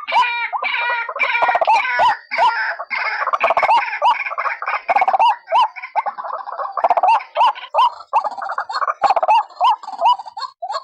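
White-breasted waterhens calling in a dense, overlapping chorus of harsh, repeated croaking notes, several birds at once. A short hooked note recurs a few times a second. This is a bird-trapping lure call.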